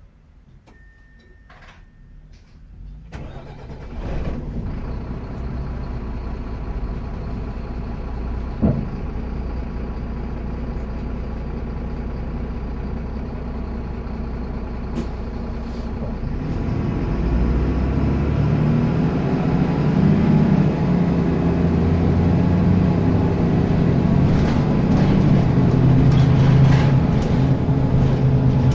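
Bus diesel engine starting up again after cutting out and settling into a steady idle, then running louder from about halfway, its pitch rising and falling as it revs.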